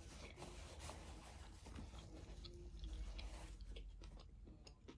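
A person chewing a shrimp, faintly, with small scattered mouth clicks.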